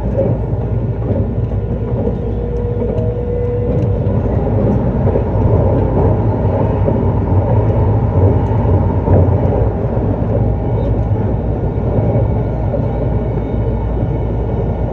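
E259 series Narita Express electric train running at speed, heard from inside a carriage: a steady rumble of wheels on rail and the car body, with a brief steady tone about two seconds in.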